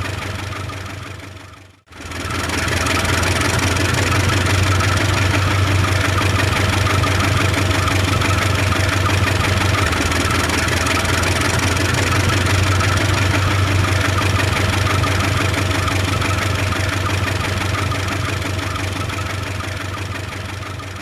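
Engine running steadily with a deep hum. It fades out about two seconds in, comes back up and holds, then starts fading again near the end.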